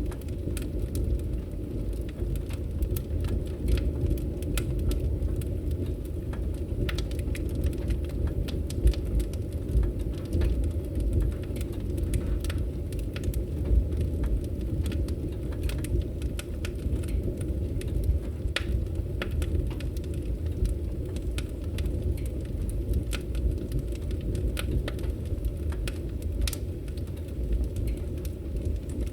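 Wood fire in a fireplace crackling: frequent sharp pops and snaps scattered over a steady low rumble of the flames.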